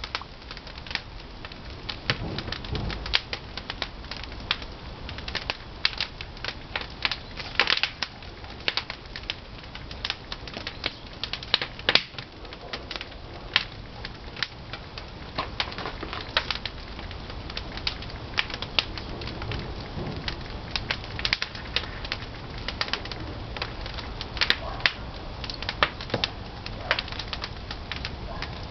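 Pine firewood burning in a traditional wood-fired kiln, crackling with many sharp, irregular pops over a steady low noise.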